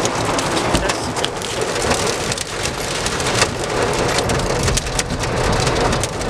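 Heavy thunderstorm downpour pelting a car: a steady loud hiss of rain with many sharp hits of drops on the roof and glass.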